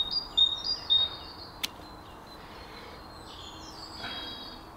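A songbird singing: a run of short, high whistled notes, each dropping at the end, loudest in the first second and again near the end. About one and a half seconds in, a single sharp snip of Felco Model 7 secateurs cutting through a dogwood stem.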